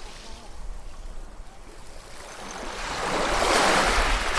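Ocean waves on a shore: a quieter lull, then a wave surging in and breaking, building from about halfway and loudest near the end.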